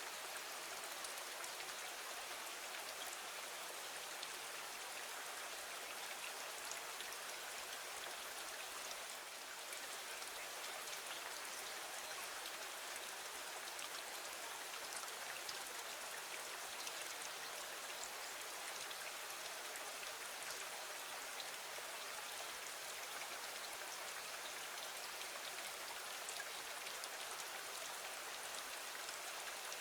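Steady rain falling against a window, an even hiss with many small scattered drop ticks.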